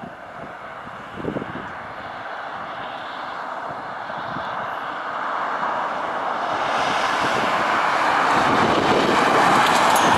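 A vehicle at speed, a steady rush of engine, tyre and wind noise that grows steadily louder through the second half, as a van towing the unpowered bike approaches.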